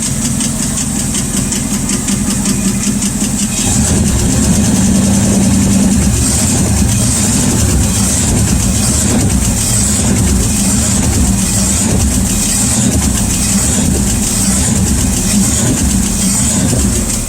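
Rat rod engine idling with a rapid tick running through it, which the owner traced to a bent pushrod. The engine gets louder about four seconds in.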